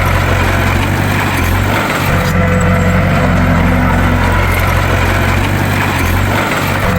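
Bulldozer's diesel engine running steadily at a constant loud level, the same cycle of sound repeating about every four and a half seconds.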